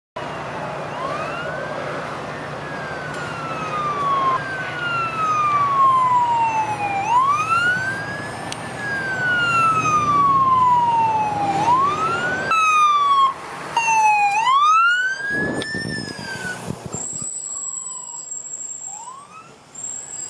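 Fire truck's electronic siren wailing, each cycle rising quickly and then falling slowly, repeating several times with traffic rumble beneath. It fades away about three-quarters of the way through, leaving a thin steady high tone.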